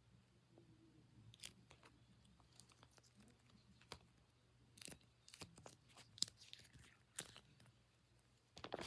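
Faint, scattered crackles and clicks, about half a dozen spread irregularly, from hands handling a squishy toy up close; the last and loudest comes near the end.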